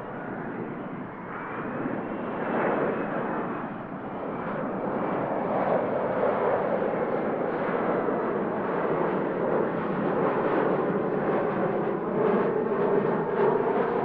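Jet aircraft engines running, growing louder over the first few seconds and then holding loud as the plane passes close by.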